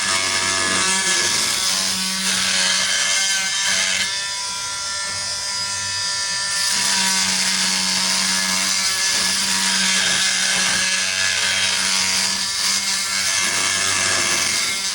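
Oscillating multi-tool saw running steadily, cutting through the cracked trolling motor shaft to remove the damaged section.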